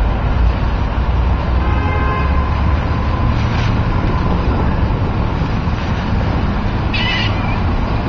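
Water birds calling a few times, the clearest a short high call about seven seconds in, over a steady low rumble.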